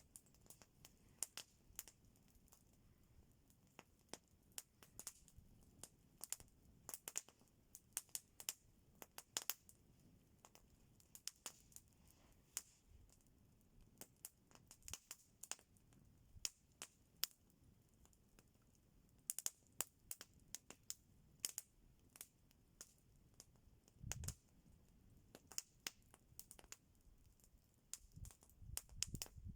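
Campfire crackling: burning wood snapping and popping in scattered sharp clicks, a few a second, with a dull low thump toward the end.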